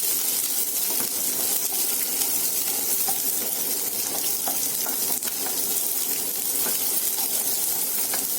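Sliced shallots and coconut slices frying in hot coconut oil in a pan: a steady sizzle with scattered small pops and crackles.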